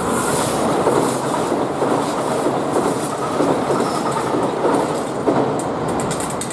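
A 2000 series diesel tilting train runs at speed on the rails in a steady loud rumble, with a quick run of wheel clacks over rail joints near the end.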